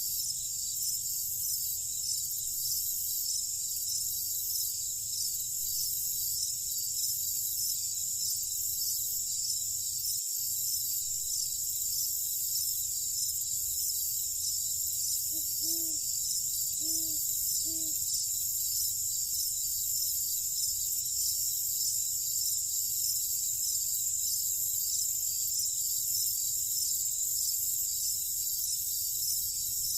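Summer-night insect chorus: crickets trilling in a dense, steady, high-pitched wash. About halfway through, three short low calls sound about a second apart.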